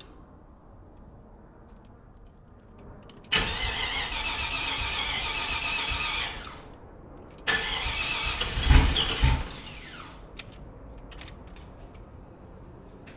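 Cold start of an LS-swapped Monte Carlo SS V8. The starter cranks for about three seconds without catching. A second crank a second later fires the engine with a short loud burst, and it drops to a quiet idle.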